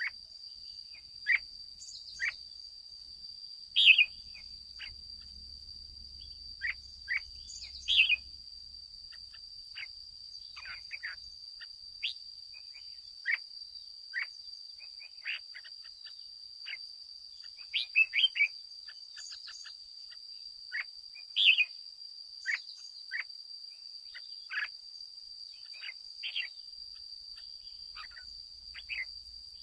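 Red-whiskered bulbuls giving short chirping calls about every second, some much louder than others, over a steady high-pitched drone.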